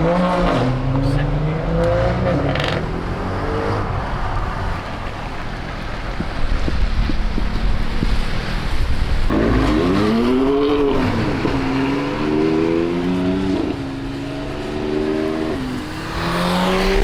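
Audi RS6 engine accelerating hard through the gears, its pitch climbing and then dropping at each quick upshift, with one rev that rises and falls about ten seconds in.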